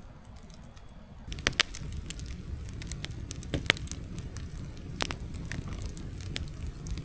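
Campfire burning partly green wood, with irregular sharp crackles and pops over a low rumble.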